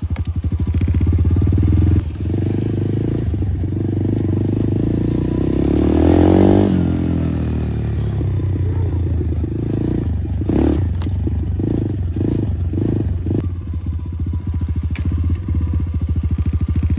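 Dirt bike engine running, growing louder to a peak about six seconds in and then easing back.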